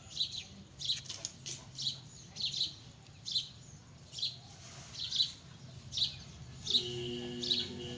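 A small bird chirping over and over, one sharp high chirp about once a second. A steady hum with a few held tones sets in near the end.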